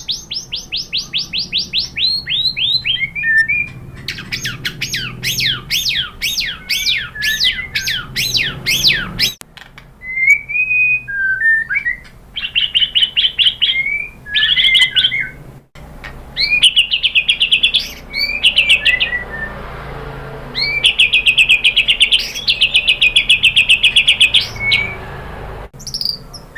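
White-rumped shama singing a fast, varied song: rapid runs of sweeping whistled notes, then a series of loud slurred notes, then short phrases and rattling trill bursts separated by brief pauses.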